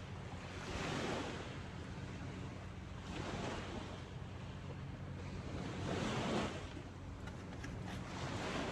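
Sea waves washing onto the shore, the surf noise swelling and falling back every two to three seconds, with a steady low hum underneath.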